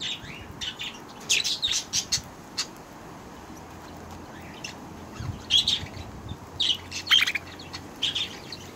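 Budgerigars chirping and chattering in short, high calls that come in bursts and pauses.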